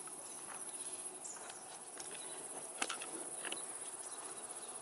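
Insects trilling in a steady, high-pitched chorus, with scattered faint clicks and one sharper click about three seconds in.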